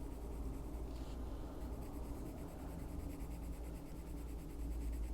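Colored pencil scratching on paper in short, irregular strokes as a page is coloured in, over a faint low hum.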